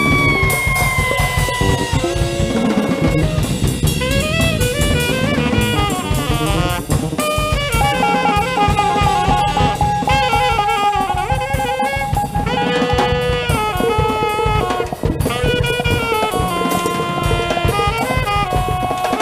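Band music in a jazz style: a drum kit keeps a steady beat under a busy melodic lead line, with one long held note in the middle.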